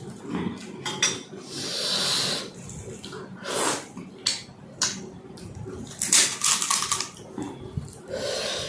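Close-up eating of panipuri: crisp puri shells crunching and cracking in irregular bursts, with wet slurps of the spiced water. There is a longer slurp about two seconds in and a dense run of crunching about six seconds in.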